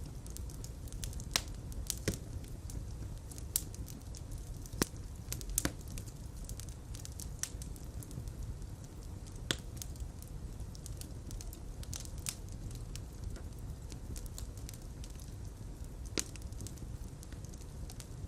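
Fireplace fire burning with a steady low rumble of flames and irregular sharp crackles and pops.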